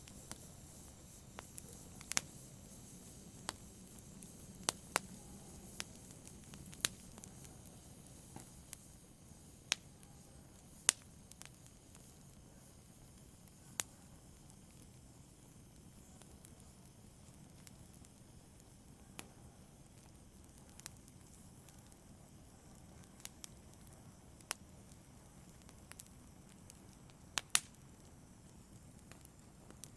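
Wood fire burning in a fireplace: a low, steady hiss with sharp crackles and pops at irregular moments. The pops come every second or so at first and grow sparser later.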